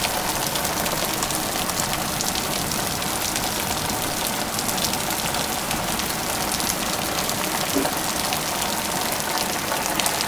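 Heavy rain falling steadily on a flooded yard and pond, a dense patter of drops over running water.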